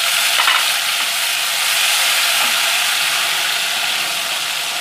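Ginger-garlic paste sizzling in hot oil with whole spices in a steel kadai: a steady hiss, stirred with a spatula.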